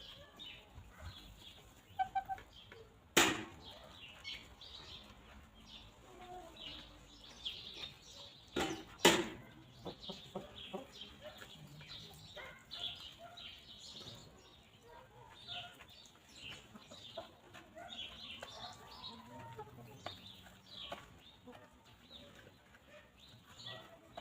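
Free-range chickens clucking softly with many short calls. There are three sharp knocks: one about three seconds in and two close together around nine seconds.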